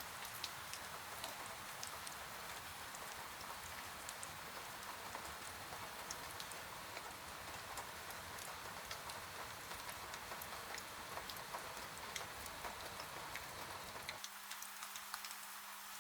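Steady rain with many distinct drops ticking and pattering on a surface. About 14 s in, the sound changes suddenly: the low rumble drops out and a faint steady hum remains under the rain.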